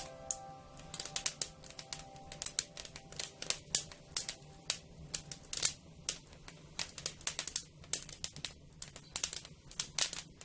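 Wood fire crackling: irregular sharp pops and snaps, several a second, over a faint low hum. A few soft held music notes fade out in the first second or so.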